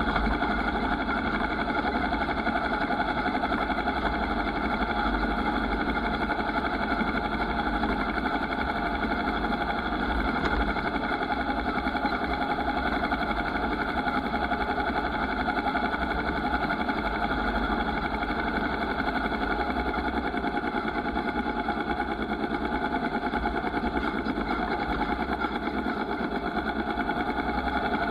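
Motorcycle engine running steadily at an even pitch, with no revving or gear changes.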